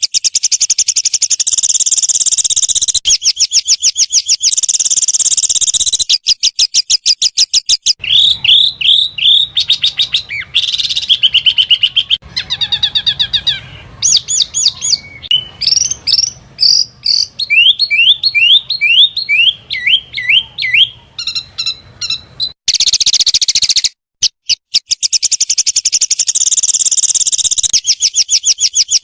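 Small songbirds singing loud, very rapid high-pitched trills and quick runs of repeated chirps and whistled notes, with several different song phrases following one another with abrupt cuts, as in a spliced song-tutor recording.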